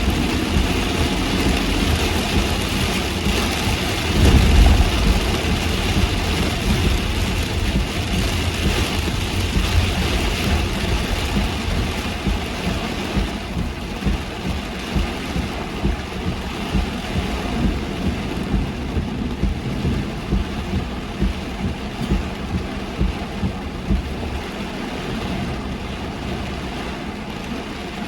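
Heavy rain falling on a moving car, with tyre hiss on the wet road and the car's engine running under it. A louder low rumble comes about four seconds in, and a regular pulse of about one beat a second runs through the second half.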